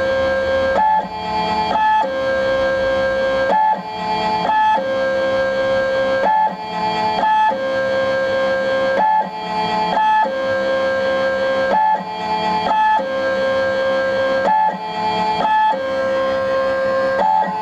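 Stepper motors of a Sherline CNC lathe singing in steady electronic tones as the program drives the carriage back and forth: a long lower note, then a short higher one, repeating about every two and a half seconds.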